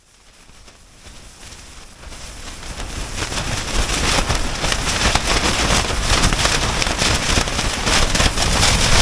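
Blizzard wind driving snow against a tent, a dense crackle of hits over a low wind rumble, growing from faint to loud over the first few seconds.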